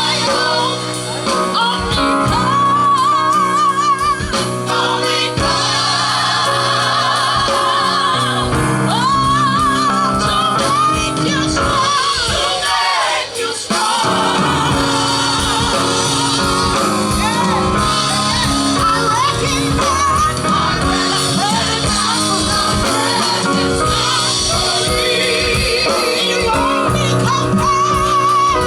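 Gospel group singing live with instrumental backing; a lead voice holds notes with a wide vibrato.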